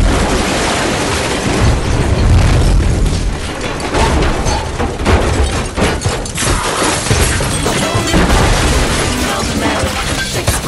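Passenger train passing close by at speed: a loud, dense rush of wheel and rail noise over a heavy low rumble that swells and eases. Music comes in near the end.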